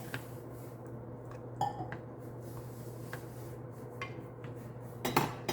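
A few light clinks and knocks of a cooking pot and utensils, one with a short metallic ring, then a louder pair of knocks near the end, over a steady low hum.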